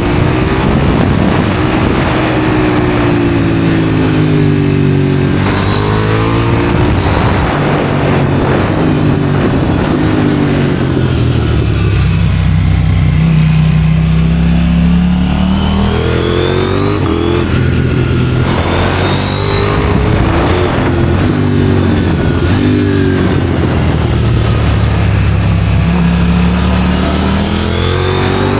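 KTM 790 Duke's parallel-twin engine through an IXRACE aftermarket exhaust, revving up through the gears and falling back again and again as the rider rolls on and off the throttle.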